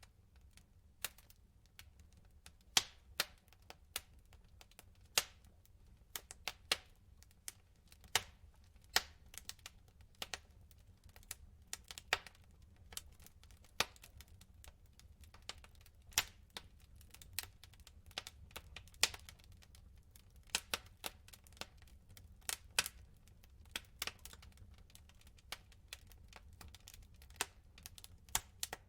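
Wood fire in a fireplace crackling, with irregular sharp pops and snaps from the burning logs, some much louder than others, over a faint low rumble.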